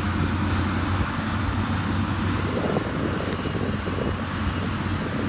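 Diesel engine of heavy road-building machinery running steadily, a constant low hum under a broad mechanical noise.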